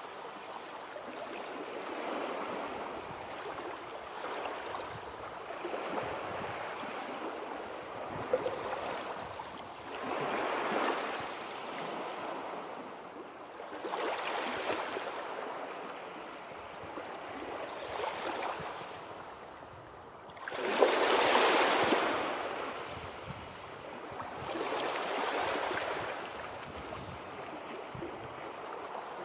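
Sea waves washing onto a shore in a continuous rush, with a louder wave swelling and breaking every few seconds, the biggest about two-thirds of the way through.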